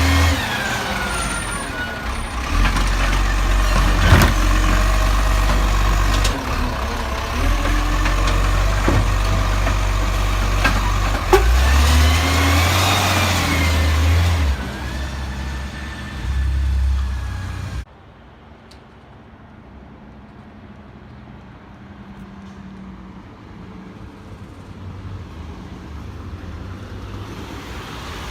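Garbage truck diesel engine running, with whining tones that rise and fall and several sharp knocks. It cuts off suddenly to a much quieter vehicle sound that slowly grows louder.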